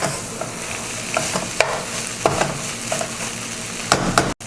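Shredded chicken filling frying in a pan with a steady sizzle, being stirred so that the utensil knocks and scrapes against the pan a few times. The chicken is being cooked down until dry.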